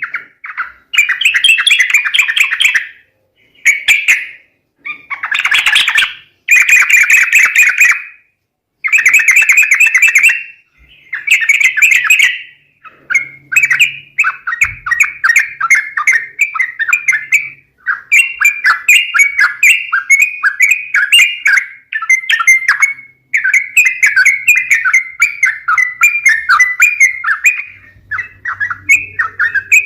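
Yellow-vented bulbul (trucuk) calls played as a lure recording: loud bursts of rapid chattering notes with short gaps between them. From about halfway through, the notes run on without a break.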